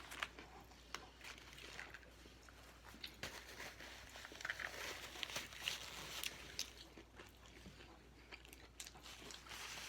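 Faint crunching bites and chewing of a Popeyes classic fried chicken sandwich, with scattered short crinkles of its paper wrapper.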